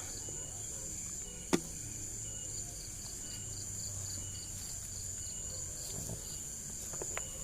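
Crickets chirping in a fast, even pulsed rhythm over a steady high-pitched drone, with one sharp click about a second and a half in.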